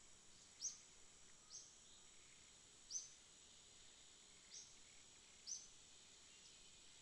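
Faint night-time insect chorus: a steady high-pitched trill, with about five short, sharp chirps standing out at uneven intervals.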